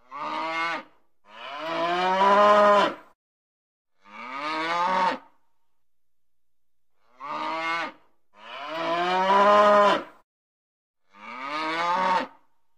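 Cows mooing: six moos in two matching sets of three, a short moo, then a long one, the loudest, then a medium one, with a pause of about two seconds between the sets.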